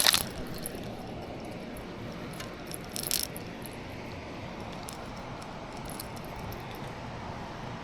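A few small metallic clicks and rattles of hemostats and a lure's hooks as a small smallmouth bass is unhooked, over a steady low rushing noise.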